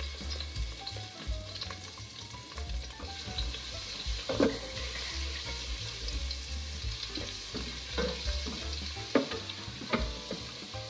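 Ginger-garlic paste sizzling as it fries in hot oil in an enamel pot, stirred with a slotted wooden spatula, with a few sharp knocks of the spatula against the pot.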